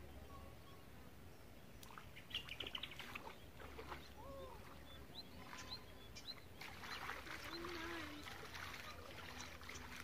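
Birds chirping and calling over a quiet outdoor background. There is a quick run of chirps about two seconds in, scattered single calls after that, and a busier patch of high calls near the end.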